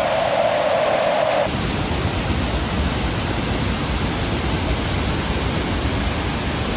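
Waterfall roaring close by: a steady, even rush of falling water. About one and a half seconds in the sound changes abruptly and becomes deeper and fuller.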